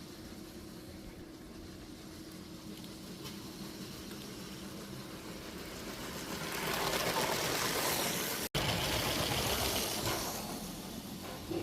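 Motorised Lego train running on plastic track: a steady motor whirr with wheel rattle that grows louder from about six seconds in as the train comes close, stays loud for about four seconds, then eases off.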